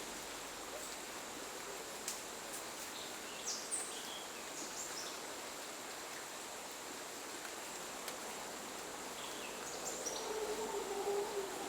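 Rainforest ambience: a steady high insect drone over an even hiss, with scattered short bird chirps and whistles, and a low wavering call about ten seconds in.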